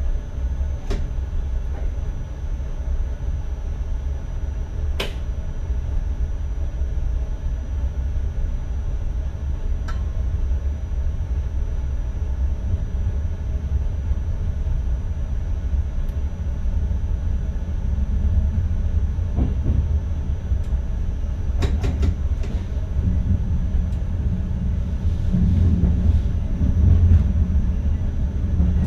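NS ICM electric train heard from inside the driver's cab while running: a steady low rumble of wheels and running gear with a faint high whine. A few sharp clicks sound over it, and the rumble grows louder over the last several seconds.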